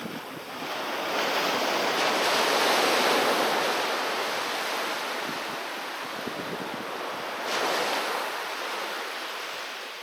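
Sea waves breaking on a beach: a wave swells up and crashes in about two seconds in, then washes out, with a second, smaller break about three-quarters of the way through before the surf fades.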